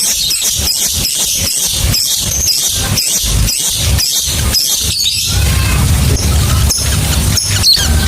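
Lovebird chattering in a rapid run of short, shrill chirps, several a second, for about five seconds, then a few scattered chirps over a steady low hum.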